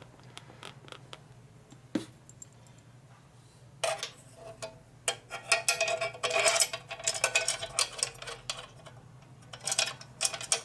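Metal clinks and rattles of bolts and hand tools being handled while front mounting bolts are fitted, in dense clusters from about four seconds in and again near the end, over a faint steady hum.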